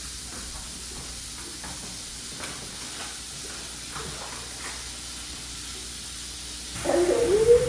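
Food sizzling in a frying pan, a steady hiss with faint crackles. Near the end a voice breaks in loudly with a gliding call.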